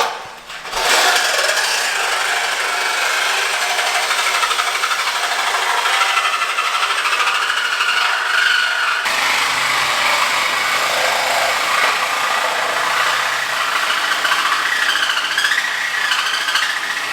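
Power saw cutting through the steel exhaust pipe to take out the mid-muffler. A steady, high cutting noise with an abrupt change about nine seconds in.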